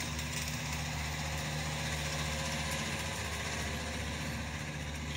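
El Chepe Express passenger train rolling slowly past, with a steady low engine drone and a hiss of running noise over it.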